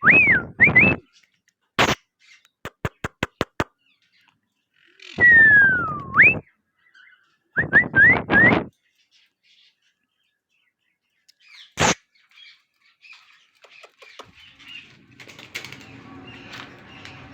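Loud whistled notes: a quick rise and fall at the start, then a long whistle falling and sweeping back up about five seconds in, and a string of short rising whistles near eight seconds. In between comes a quick run of about seven sharp clicks.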